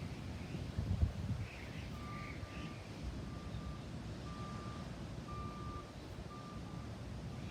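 Rain ambience with a steady low rumble and a thump about a second in. From about two seconds in comes a series of short, uneven beeps, all at one high pitch.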